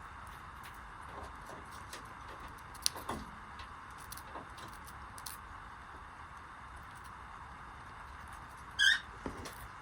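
Cockatiel giving one short, loud chirp near the end, over a steady background hiss with scattered light clicks and a faint falling squeak about three seconds in.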